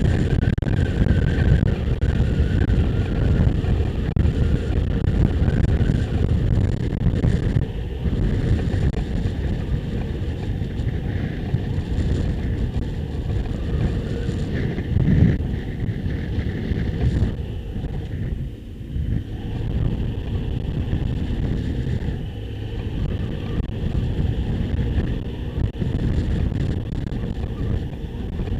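Motorcycle engine running under way, with wind rushing over the microphone; the sound dips briefly about two-thirds of the way through.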